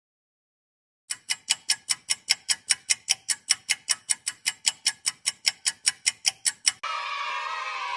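Quiz countdown-timer ticking sound effect: fast, even clock-like ticks, about five a second. It starts about a second in and stops near the end, when a steady hissing sound with wavering tones takes over.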